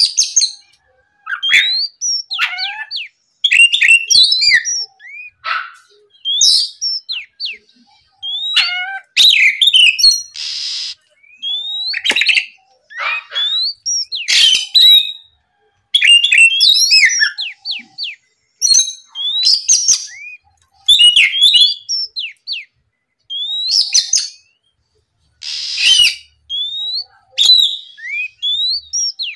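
Oriental magpie-robin (kacer) in full song: rapid phrases of loud, sweet whistles, sliding notes and chirps, broken by short pauses. Twice, about ten seconds in and near the end, there is a brief harsh hissing rasp.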